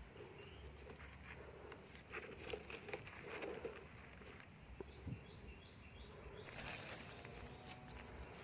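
Wild birds calling faintly: a low call repeated several times in the first half, then a short run of high chirps. Scattered light clicks are heard, with a brief rustle about two thirds of the way through.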